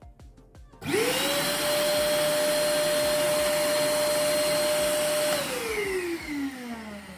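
Einhell TC-VC 1815 wet-and-dry construction vacuum switched on about a second in, its motor whine rising quickly to a steady high pitch and running loud for about four seconds. It is then switched off and winds down in a falling whine near the end.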